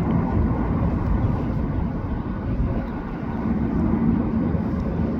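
Jet airliner engines running, a steady rumble.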